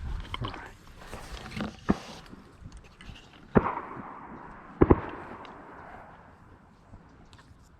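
Shotgun shots: a lighter crack about two seconds in, then two sharp reports about a second and a quarter apart, each trailing off in a long echo.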